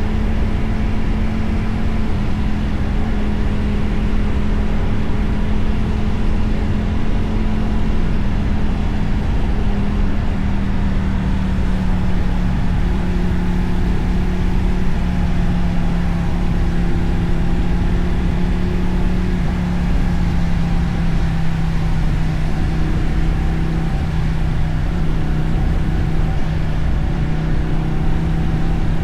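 Motorcycle engine and exhaust running at a steady cruise from the rider's seat, with a dense low rumble under one constant engine note. The note drops a little about ten seconds in and then holds.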